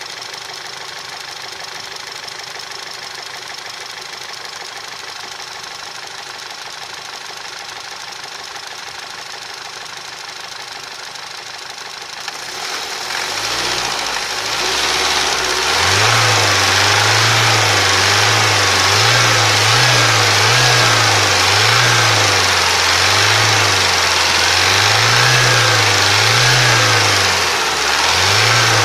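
Petrol TSI engine running with a knocking noise, idling steadily at first. About 12 seconds in the revs are raised and held higher, the engine note rising and wavering up and down from there on.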